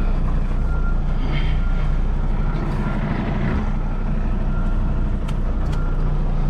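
Kenworth T680 semi truck's diesel engine running steadily at low speed while the rig reverses, heard from inside the cab, with a faint thin high tone over it.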